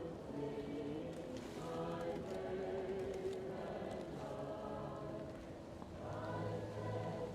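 A Christmas choir singing slow, sustained lines, muffled as if heard from another room, with faint pops and crackles of a wood fire.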